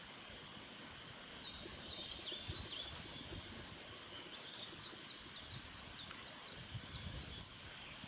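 A bird calling: a run of quick, sweeping high notes starting about a second in, loudest at first and thinning out toward the end, over a steady faint outdoor hiss.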